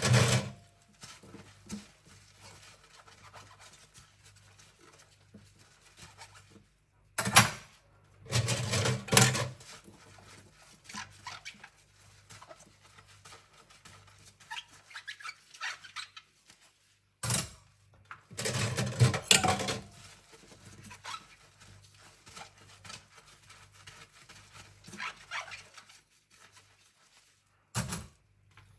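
Stainless cutlery being hand-scrubbed: quiet scrubbing and light metal clinks, broken roughly every ten seconds by a louder clatter of pieces knocking together.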